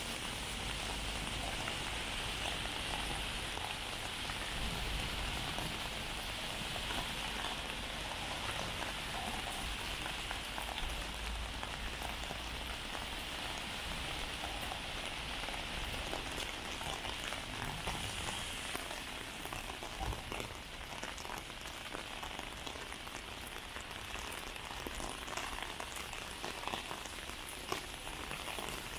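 Heavy rain falling steadily, with many individual drops ticking sharply close by.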